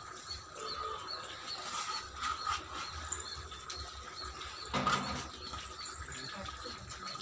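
Small birds chirping faintly and repeatedly in the background, with one short dull knock about five seconds in.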